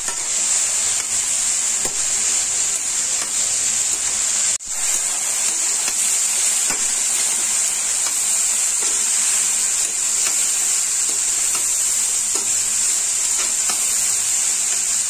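Grated cauliflower sizzling steadily in hot mustard oil in a steel kadai while a metal spatula stirs and scrapes through it. The sound drops out briefly about four and a half seconds in.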